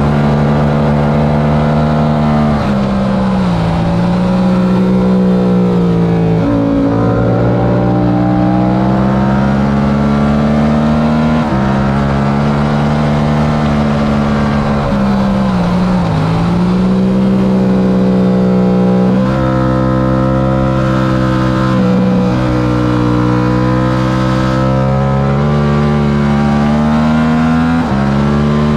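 Yamaha R7's 689 cc parallel-twin engine at racing revs, climbing in pitch through the gears and dropping at each shift, with a few longer falls as it winds down under braking.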